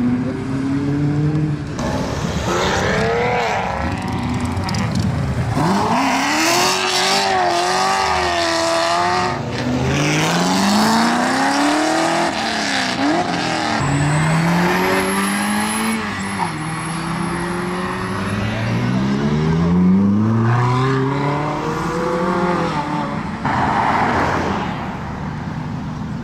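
Ferrari engines accelerating hard through the gears, one after another. Each engine note climbs in pitch and then drops at an upshift, many times over.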